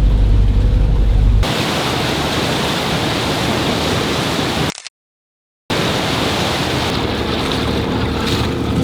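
Low steady hum of a tour boat's engine for about a second and a half, then a cut to an even rushing noise of wind on the microphone and water from the moving boat. The sound drops out completely for about a second midway, then the rushing resumes.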